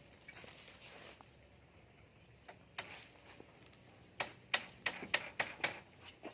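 Sharp knocks: a couple of single strikes, then a quick run of about six loud ones, roughly three a second, starting about four seconds in.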